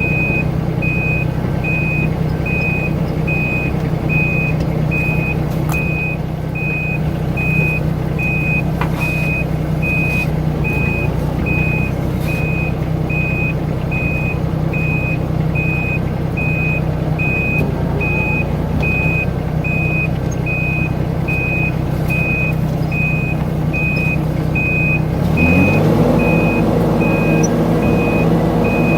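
Mini excavator's diesel engine running steadily under a high-pitched travel alarm beeping evenly, about three beeps every two seconds. About 25 seconds in the engine revs up and holds at the higher speed.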